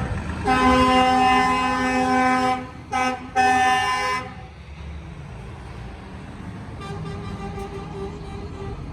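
Truck horns sounding during a truck parade: one long blast, then two short blasts, followed later by a fainter, steadier horn over the rumble of passing trucks.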